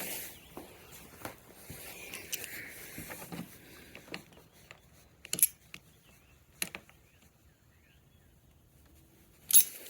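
Scattered light clicks and small scrapes of metal and plastic parts being handled and worked loose on a scooter's handlebar throttle assembly, the sharpest ticks about five and a half, six and a half and nine and a half seconds in.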